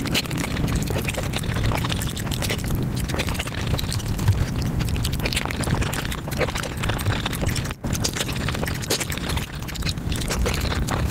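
Close-miked eating sounds sped up five times: chewing and wet mouth sounds run together into a dense, rapid stream of clicks and smacks, with a brief break a little before eight seconds in.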